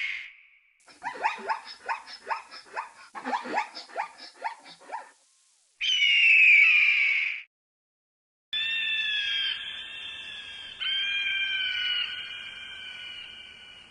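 A string of animal calls: about four seconds of rapid chattering pulses, then a loud screech of about a second and a half, and after a brief silence a long, steady call with several tones at once that slowly fades. Each part starts and stops abruptly.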